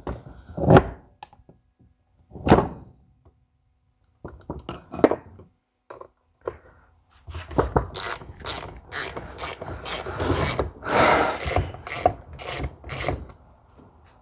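Hand ratchet wrench clicking in quick strokes, about three a second, through the second half, after a few separate knocks and clinks of metal tools and parts.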